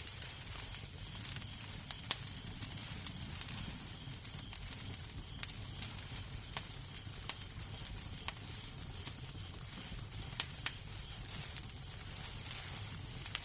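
Wood fire crackling in a fireplace: a steady low rumble and hiss under irregular sharp pops and snaps, a few louder than the rest.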